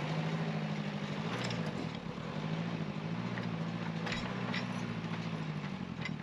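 Backhoe loader's diesel engine running steadily, its note shifting slightly now and then as it works, with a few faint clinks.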